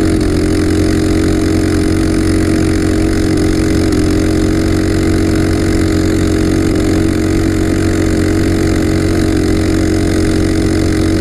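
Tillotson 212 racing engine, a single-cylinder four-stroke, on a Coleman CT200U-EXR minibike, running flat out at a steady pitch. The bike has reached its top speed of about 38 mph and is no longer accelerating. Very loud.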